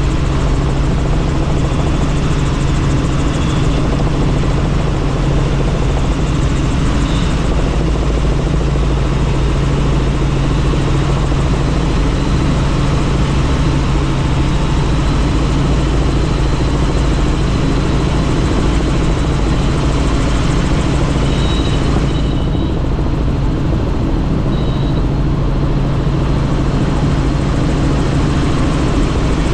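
Helicopter in flight heard from on board: a steady, loud drone of rotor and turbine with a constant low hum and rushing air noise.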